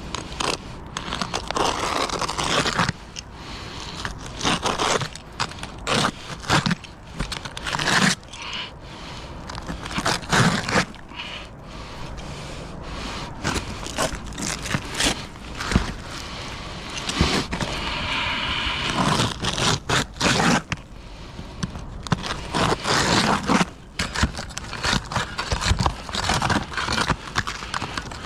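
Irregular scraping and rustling of roofing work, with short knocks scattered through it.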